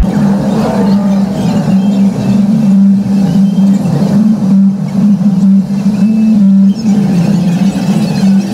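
Loud, steady deep engine drone from vehicles in slow traffic, its pitch shifting slightly up and down.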